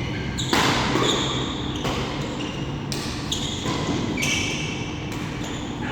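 Badminton doubles rally in a sports hall: rackets hitting the shuttlecock with a sharp crack about every second, amid players' footwork and short squeaks on the court.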